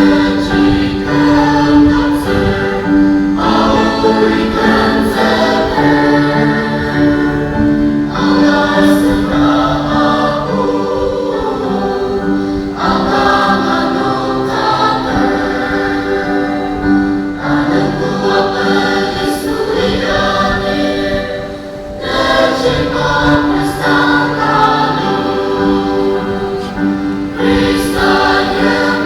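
Choir singing a gospel hymn with several voices together and long held notes, laid over the footage as music.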